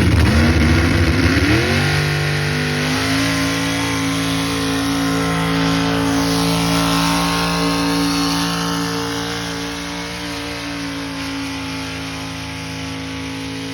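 Engine of a pulling vehicle revving up over the first couple of seconds, then held at a steady high pitch at full throttle while the sound slowly fades.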